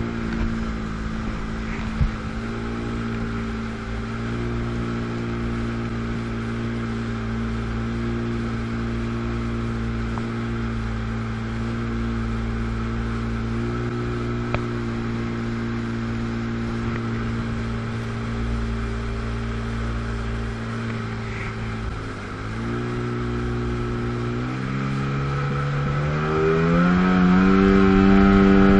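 1997 Sea-Doo GTS's 720 two-stroke twin running at a steady low speed, then throttled up in the last few seconds, its pitch rising and growing louder as the ski accelerates.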